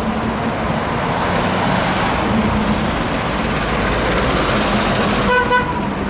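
Engines of tractors and cars running steadily as they pass on the road, with one short horn toot near the end.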